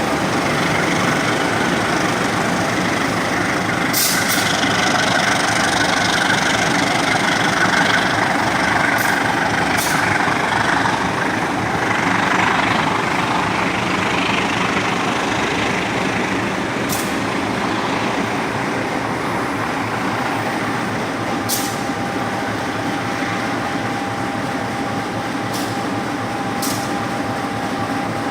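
Diesel-hauled passenger train rolling out of the station: a steady rumble of the carriages moving past, with a few sharp clicks scattered through it. A thin steady whine joins in the last third.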